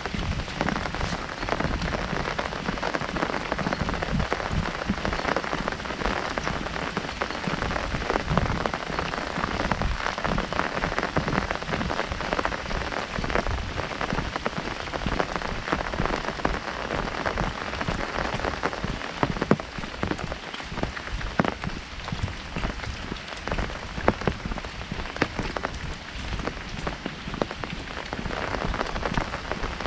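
Heavy rain falling on an umbrella: a dense, steady patter of many drops.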